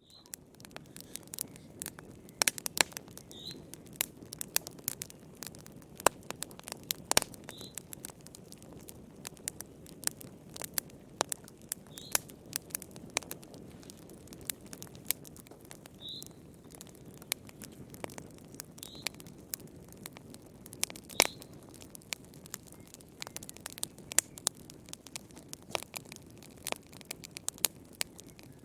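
Wood fire burning, crackling with many small pops and occasional louder snaps over a low, steady rush of flame.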